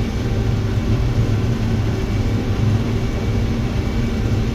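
Combine harvester running steadily while cutting corn: an even, low drone.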